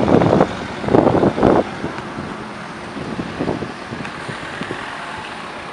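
Ferrari F430 Spider's V8 engine running, with two loud surges in the first two seconds and a smaller one later, otherwise a quieter steady running.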